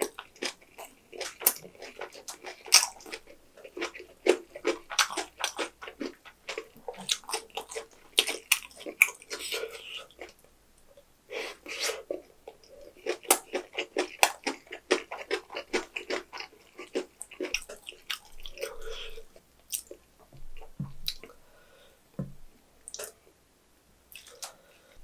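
Chewing a mouthful of fresh napa-cabbage kimchi and white rice: two long runs of rapid crunching clicks, with a short pause about ten seconds in, thinning out in the last few seconds.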